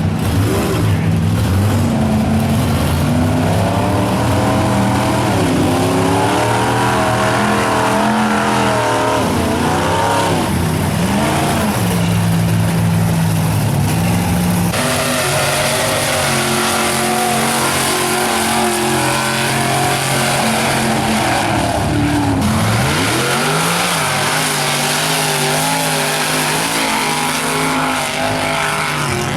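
Mega truck engines revving hard while bogging through mud, their pitch climbing and dropping again and again, with several engines running at once.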